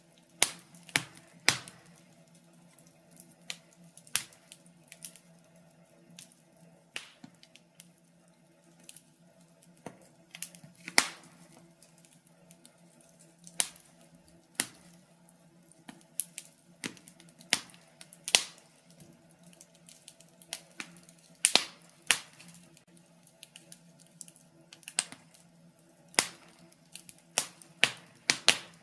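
Wood fire in a fireplace crackling, with sharp pops at irregular intervals, some much louder than others, over a faint steady hum.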